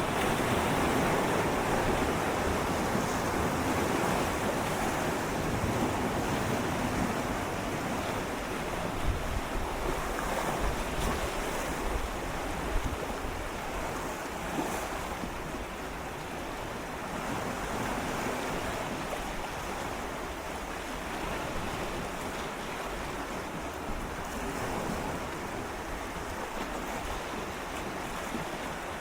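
Gentle sea waves lapping and swirling against shoreline rocks, the wash rising and falling in slow swells, with a few small splashes partway through and a little wind on the microphone.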